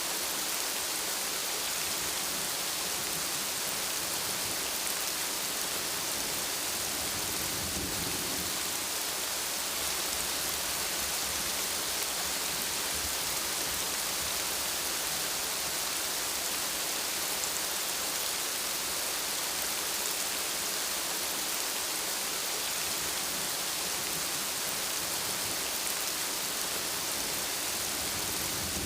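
Steady heavy rainfall, a dense even hiss of drops, with a brief low rumble of thunder about eight seconds in.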